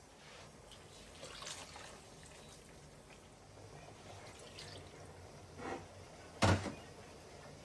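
Quiet household handling sounds: a few faint brief scrapes or clinks, then one sharp knock about six and a half seconds in.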